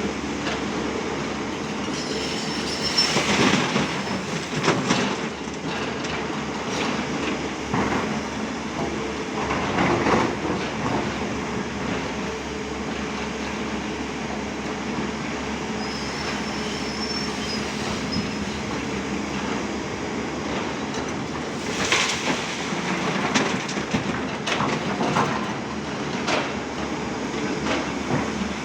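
Heavy diesel machinery running steadily, with irregular metal clanks and two brief high-pitched metallic squeals.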